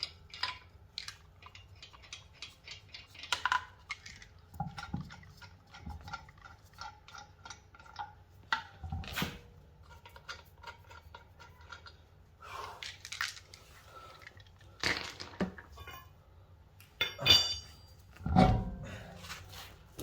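Metal tools and parts clinking and clattering in a series of separate knocks and clicks during brake work, with a louder ringing metal clank near the end.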